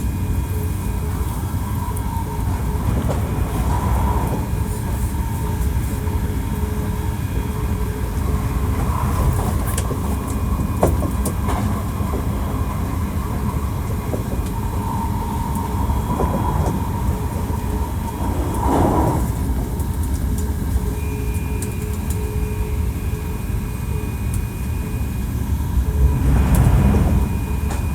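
Running noise inside a Hankyu 1300 series train car: wheels on rail with a continuous rumble and the steady hum of its Toyo IGBT inverter traction equipment. A higher steady whine joins about two-thirds of the way through.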